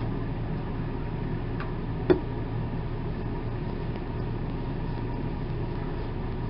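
Steady low background hum, with one sharp click about two seconds in.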